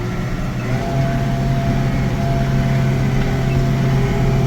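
McCormick CX105 tractor's diesel engine running steadily, heard from inside the cab. Its pitch steps up slightly about a second in, then holds.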